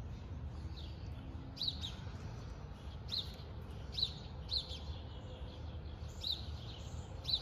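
A small bird chirping repeatedly, short high chirps coming every second or so, over a low steady background rumble.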